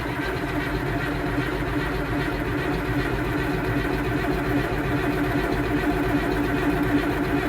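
Tractor engine being cranked by its starter on a cold morning, a steady mechanical whine that has not yet caught and started: a hard cold start after the tractor has sat unused.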